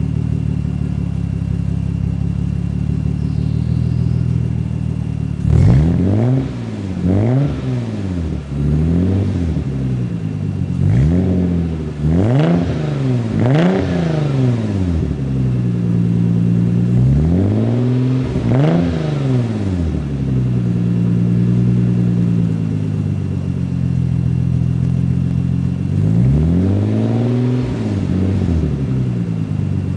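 1990 Nissan 300ZX 2+2's 3.0-litre V6 idling through a DTM twin-tip exhaust. About five seconds in it is blipped in a string of quick revs, then revved twice more in the middle and once more near the end, dropping back to a steady idle between.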